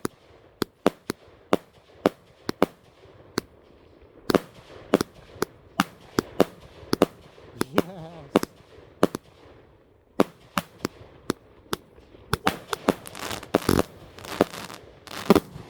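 Consumer firework cake firing: a string of sharp bangs, two or three a second, coming thicker and louder in a closing volley a couple of seconds before the end.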